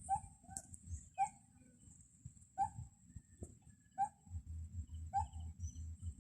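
A bird calling from a treetop: about six short, clear call notes at irregular intervals of a second or so, over a faint steady high hiss, with a low rumble joining about four seconds in.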